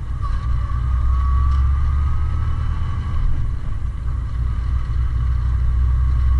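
Kenworth T660 semi truck's diesel engine pulling in gear, heard from the cab: a steady low rumble with a faint whine that rises slowly as the revs climb toward the shift point.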